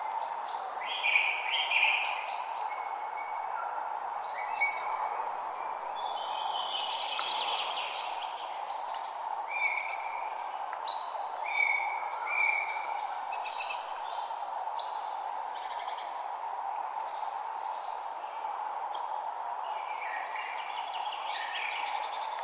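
Several woodland songbirds singing and calling in spring, with many short chirps and whistled notes overlapping, over a steady background noise.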